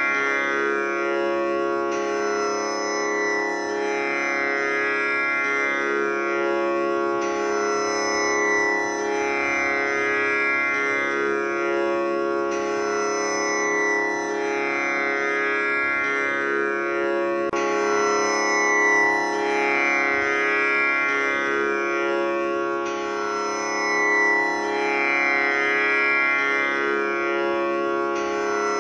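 Tanpura tuned to C#, sounding a continuous buzzing drone as its strings are plucked in a repeating cycle about every five seconds, the shimmering overtones swelling with each round.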